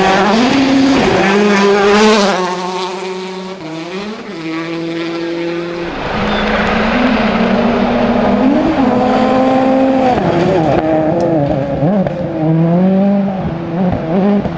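Rally car engines at full stage pace, the pitch climbing and then dropping back again and again as the drivers shift gears and lift. The sound changes character about six seconds in, with a deeper rumble underneath, as another car or passage takes over.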